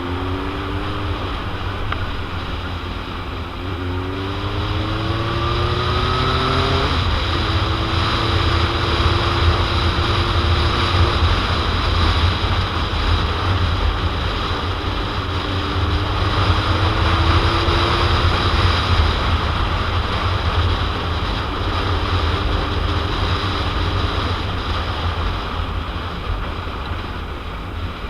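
Heavy wind noise buffeting the microphone on a moving 2001 Suzuki GSX-R750, over the bike's inline-four engine. The engine pitch climbs from about four seconds in, drops at a gear change near seven seconds, holds steady, and climbs again in the second half as the bike accelerates.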